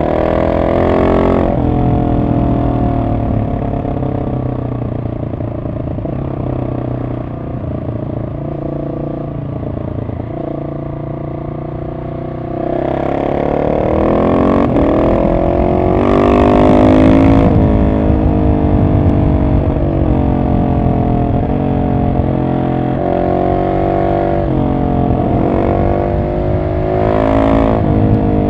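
Husqvarna 701 SM's single-cylinder engine through a decatted Arrow exhaust, riding at moderate, fairly steady revs at first. About twelve seconds in it is opened up and revs climb hard through the gears, loudest a few seconds later, with another short rev near the end.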